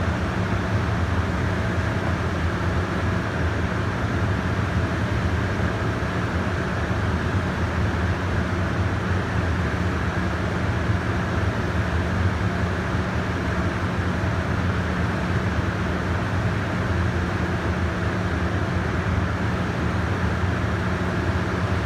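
Steady low mechanical hum with a constant rushing noise over it, unchanging, with no distinct events.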